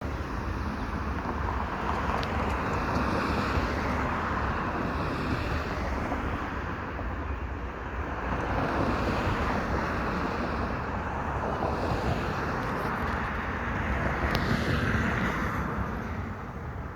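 Hawker 400XP business jet's twin Pratt & Whitney JT15D turbofans running: a steady rushing jet noise that swells and eases, with wind buffeting the microphone.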